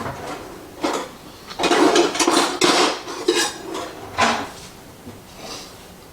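Kitchen utensils and dishes clattering and knocking on a work surface: a single knock, then a longer run of clatter about two seconds in, then a couple more separate knocks.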